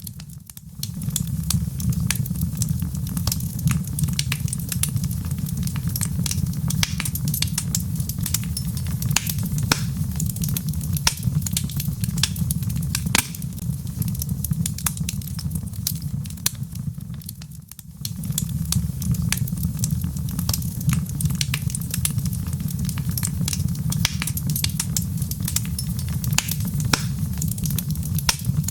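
Wood fire burning in a fireplace: logs crackling and popping with many sharp snaps over a steady low rumble of the flames, the sound dipping briefly twice.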